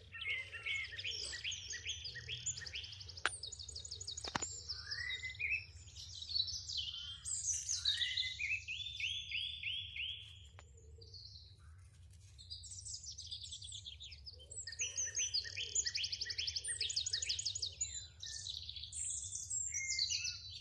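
Birds chirping and singing, with rapid trills of repeated high notes and a lull of a few seconds near the middle.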